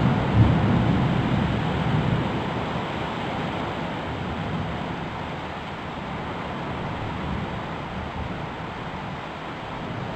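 Thunder rumbling, loudest about half a second in and dying away over the next two seconds, over the steady hiss of heavy rain.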